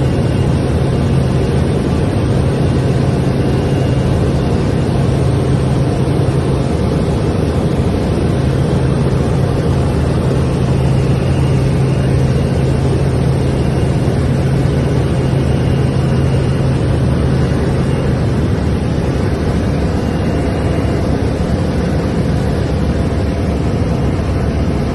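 A motor running steadily under a loud, even rushing noise; a low steady hum in it drops away about 18 seconds in.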